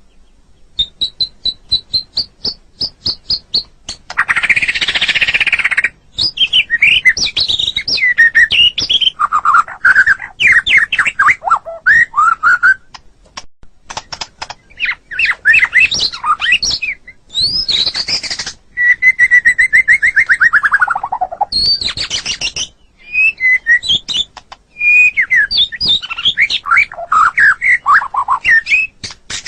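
White-rumped shama singing a long, varied song. It strings together rapid runs of repeated high notes, rich whistled phrases and a harsh rasping burst about four seconds in. About two thirds of the way through comes one long slurred whistle that falls steadily in pitch.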